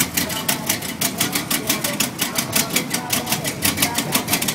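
A 1920s-style sedan hot rod's engine running as the car pulls slowly past, its exhaust giving sharp, even pulses about five a second over a low rumble.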